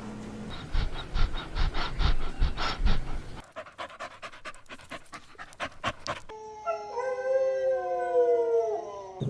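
Puppy panting rapidly, about five breaths a second, then a faster run of short panting breaths. In the last three seconds a puppy gives one long whining howl, its pitch rising slightly and then falling.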